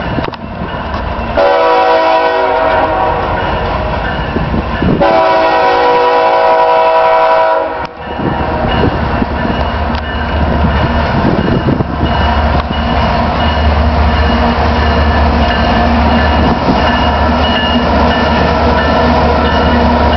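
BNSF diesel freight locomotives' multi-tone air horn sounding two long blasts back to back, then the locomotives' engines rumbling louder as the lead units draw near and pass, with a steady low drone near the end.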